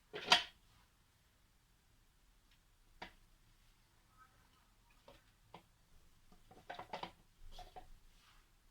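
A sharp knock just after the start, a single click about three seconds in, then a cluster of small clicks and knocks near the end: kitchen utensils and dishes being handled during cooking.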